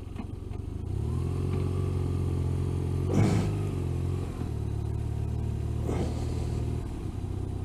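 Motorcycle engine idling steadily, with a brief louder noise about three seconds in.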